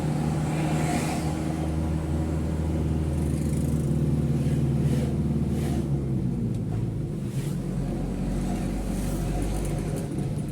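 Mitsubishi Fuso truck's diesel engine running under way, heard from inside the cab, with a few light rattles. The engine note steps down about six seconds in.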